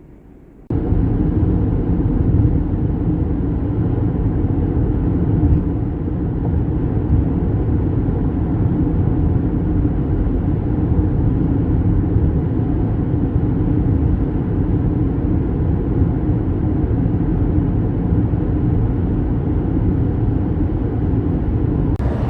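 Steady rumble of a vehicle being driven, heard from inside: engine and road noise. It starts abruptly under a second in and holds level throughout.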